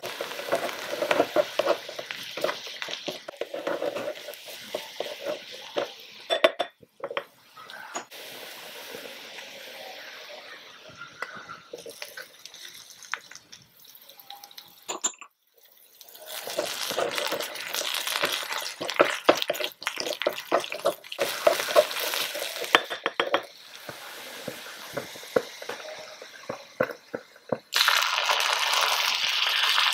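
Garlic and onion sizzling in oil in a miniature aluminium wok, with a wooden spoon stirring and scraping against the metal and light clinks. Near the end sardines in tomato sauce go in, and the sizzling grows denser and louder.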